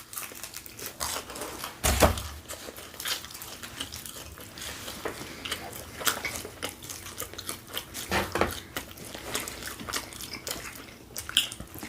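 Close-up chewing with many small wet mouth clicks and smacks of someone eating, and a single dull thump about two seconds in.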